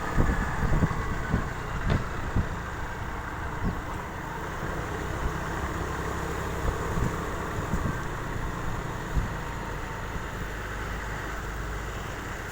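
Motorbike running on the road: steady vehicle noise with an uneven low rumble, a little louder in the first second or two.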